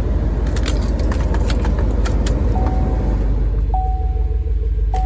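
Chevy LS4 5.3-litre V8 idling steadily, a little over a minute after a cold start. Light rattling clicks come in the first half, and from about halfway through a dashboard warning chime sounds three times as steady, single-pitch beeps.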